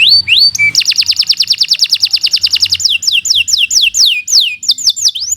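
Domestic canary singing: a few rising notes, then a long fast trill of rapidly repeated notes for about two seconds, then a run of slower, downward-sweeping whistled notes.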